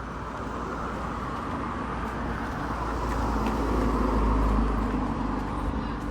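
Jet airliner flying past on landing approach: a rumble of engine and air noise that swells to a peak about four seconds in and then begins to fade.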